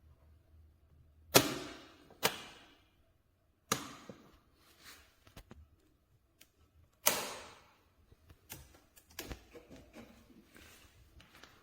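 A series of sharp knocks and clunks, each dying away quickly, with smaller clicks in between; the loudest come about a second and a half in and about seven seconds in.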